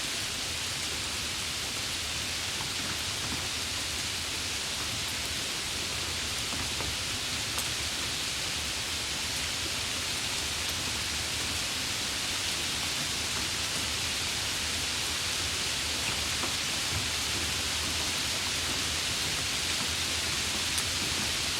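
Steady heavy rain, an even hiss with a few scattered drop ticks.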